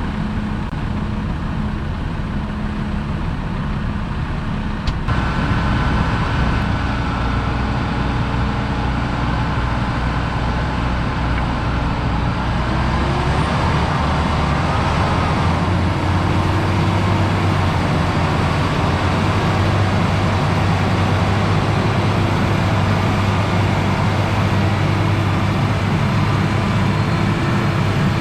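Tractor engine running steadily under load, growing louder about five seconds in, its pitch wavering up and down later on.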